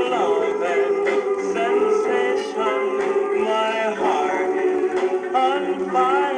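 A 1950s doo-wop vocal group singing a slow ballad in close harmony. Backing voices hold long notes under a lead voice that glides between pitches. It is an old record with a thin sound that lacks both deep bass and high treble.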